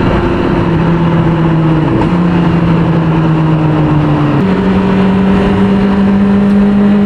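A 600cc inline-four sport bike engine running at a steady cruise over wind rush, its pitch dipping slightly and recovering, then stepping up sharply about four and a half seconds in and holding there.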